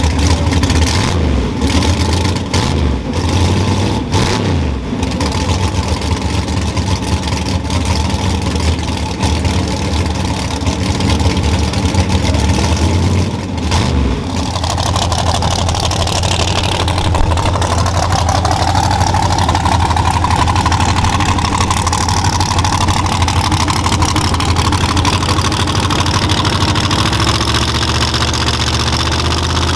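Chevy Nova drag car's engine running at a lumpy, pulsing idle, then a steadier, higher note from about halfway, with a whine that rises and falls, as the car moves up toward the starting line.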